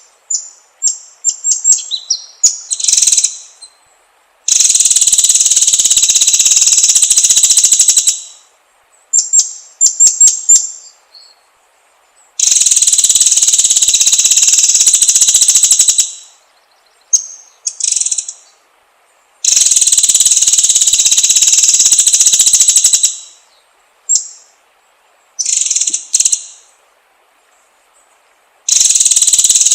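White-rumped shama (murai batu) singing: clusters of short sharp notes alternating with four long rapid trills of about three to four seconds each, spaced roughly seven seconds apart.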